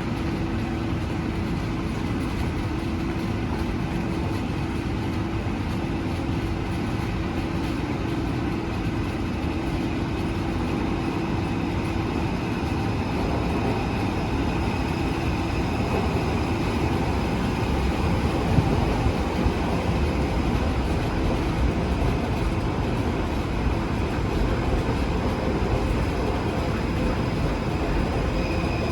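Taipei Metro C341 train running into the station. A continuous heavy rumble of wheels on rail, with a steady high whine that grows stronger in the second half and a few faint knocks.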